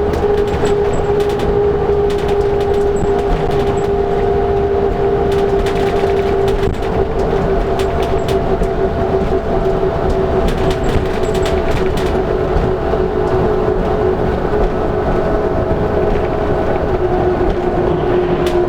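LiAZ-5292.65 bus riding along the road: its engine and drivetrain run with a steady whine that slowly drops in pitch, over road rumble and frequent short rattles from the body.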